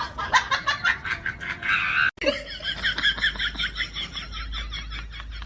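High-pitched animal chirping. After a break about two seconds in, it becomes a fast, even run of short chirps, several a second.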